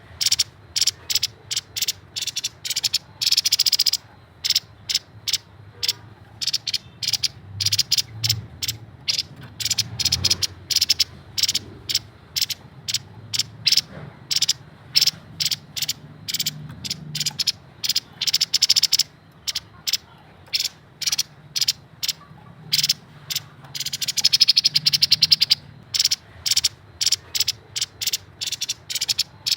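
Grey-headed babbler singing: a long run of rapid chattering trills made of fast, clicky notes, in short bursts with a few longer trills between brief gaps.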